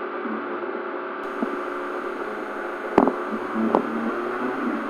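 Peugeot 206 rally car's engine idling steadily while waiting at the stage start, heard from inside the cabin. Two short sharp clicks come about three seconds in, a little under a second apart.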